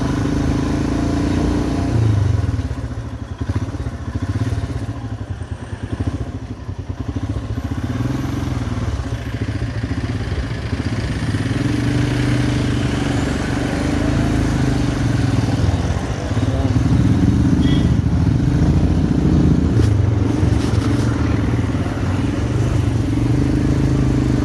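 Single-cylinder motorcycle engine running under way, easing off for a few seconds early on and then pulling steadily again, a little louder in the second half.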